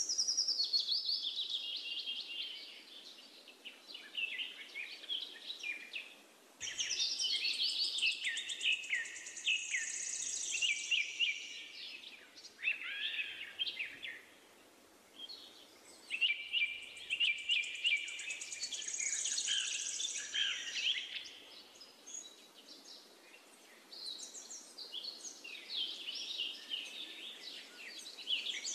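Songbirds chirping and twittering, several overlapping calls coming in bursts with short lulls between them.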